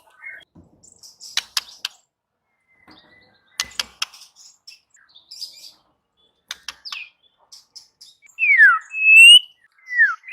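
White-rumped shama (murai batu) singing: scattered sharp clicks and short high chirps, then near the end three loud clear whistles, two falling in pitch and one held steady.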